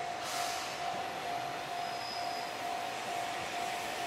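JR Shikoku 1000-series diesel railcar approaching the station, with a steady high-pitched tone running underneath. A short hiss comes about half a second in.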